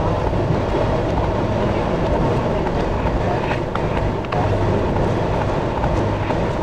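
Amtrak Carolinian passenger train running, heard from the rear door of its last car: the steady noise of wheels on rails with a low hum, and a few faint clicks a little past the middle.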